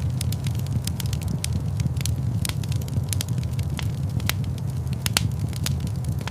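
Wood fire burning in a large stone fireplace: frequent irregular sharp crackles and pops, several a second, over a steady low rumble of the flames.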